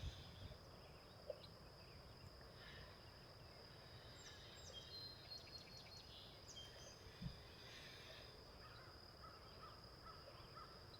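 Near silence with a faint, steady, high insect drone. Faint scattered bird chirps come in around the middle and again near the end.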